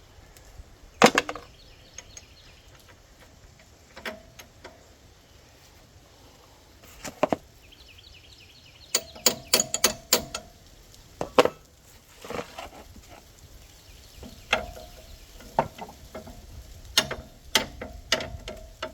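Metal clanks and knocks of tools and suspension parts being worked into place while lining up a front strut's bolt holes. There are a dozen or so irregular strikes, some ringing briefly.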